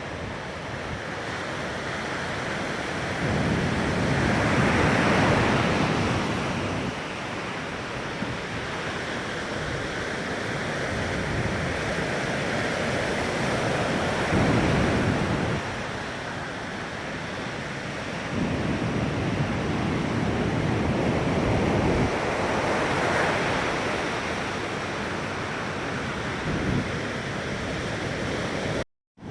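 Ocean surf breaking and washing up a sandy beach in repeated swells, each wave rising and fading, with its sound echoing back off a dune. Wind rumbles on the microphone, and the sound cuts out briefly near the end.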